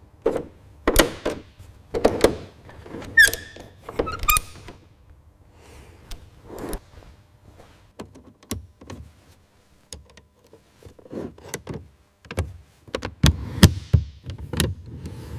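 Irregular knocks, clunks and clicks of hard parts being handled and fitted, with two short squeaks about three and four seconds in and a quicker run of knocks near the end.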